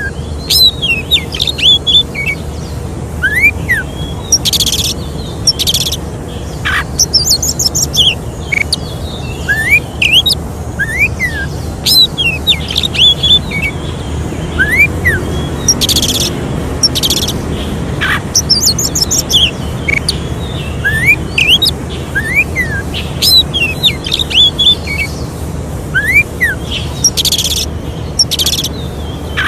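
Oriental magpie-robin (kacer) singing continuously in repeated phrases of rising whistled notes, fast high trills and short harsh rasping notes. A low steady hum runs underneath.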